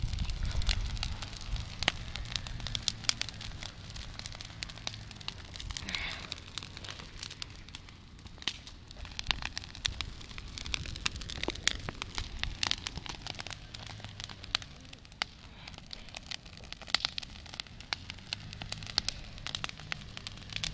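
Campfire crackling, with frequent sharp snaps and pops over a low steady rumble.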